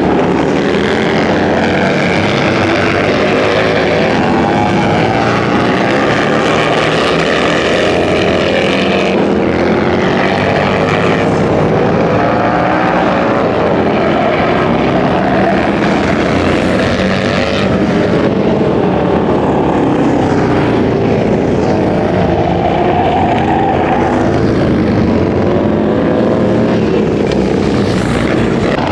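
Motorcycle engines running at speed, their pitch rising and falling throughout.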